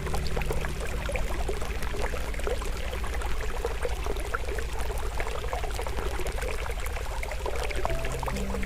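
Flowing stream water with a wood campfire crackling in many small sharp pops. Soft sustained music tones fade out about a second in and return near the end.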